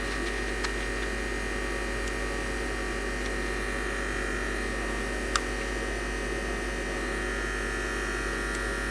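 Steady electrical mains hum with a thin, high-pitched whine held at one pitch. A single light click comes about five seconds in.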